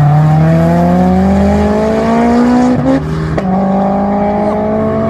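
Honda S2000 accelerating hard away, its engine rising steadily in pitch, a quick upshift about three seconds in dropping the pitch, then rising again through the next gear.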